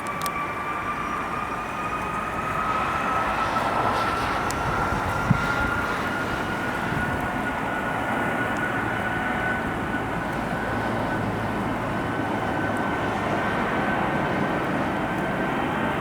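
Jet engines of an Airbus A330-343 (Rolls-Royce Trent 700s) running, a steady broad roar with a whine that slowly rises in pitch. A single sharp click comes about five seconds in.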